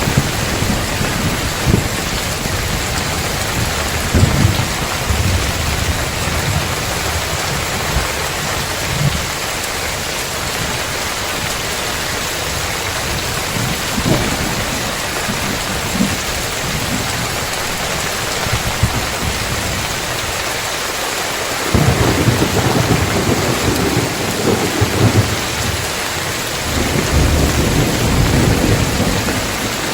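Heavy rain falling steadily on roof tiles with thunder rumbling low through it. There are several short rumbles and cracks in the first half, then two longer, louder rolls of thunder in the last third.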